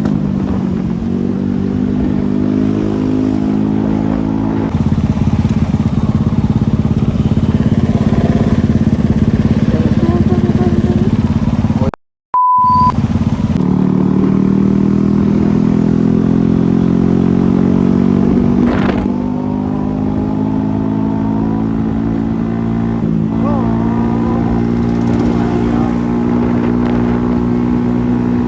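Motorcycle engine running under way, its pitch climbing through the revs and dropping at gear changes. The sound briefly cuts out about twelve seconds in, with a short beep.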